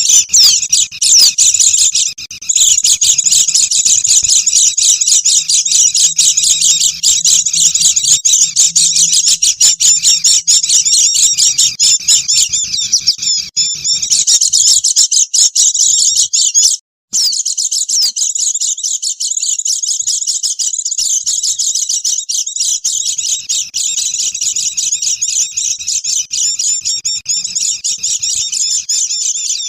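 Lure recording of white-eyes (pleci) in noisy chatter: dense, fast, high-pitched chirping from several birds at once. It breaks off for a split second a little past halfway, then carries on.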